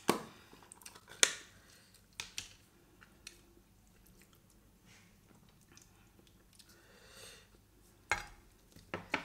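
Close-up eating sounds: a person chewing a mouthful of chicken biryani, with a handful of sharp, irregular clicks and smacks, loudest near the start and again near the end.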